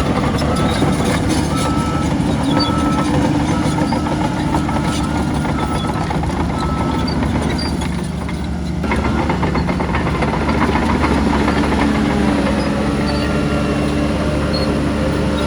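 Heavy diesel engine of earthmoving machinery running steadily under load. It eases briefly about eight seconds in, then picks up again. A reversing alarm beeps at a steady rate through the first half and again near the end.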